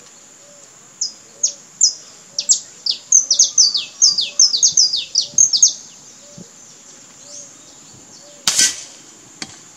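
A songbird sings a quick run of high, falling chirps for about five seconds. Near the end comes a single sharp crack from an air rifle shot, followed shortly after by a fainter click.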